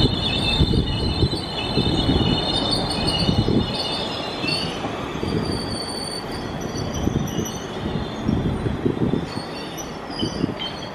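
South Western Railway Class 450 Desiro electric multiple unit moving slowly along the platform. Its wheels rumble and clatter, and high squealing tones are strongest in the first few seconds and fade out about halfway through.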